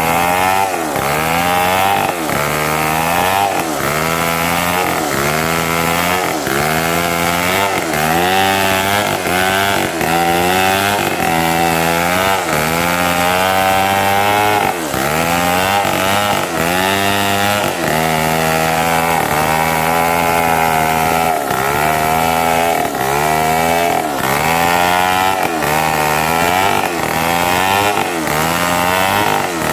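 Two-stroke chainsaw running at high revs while cutting mahogany. Its pitch dips and recovers over and over, about once a second, as the chain bites into the wood.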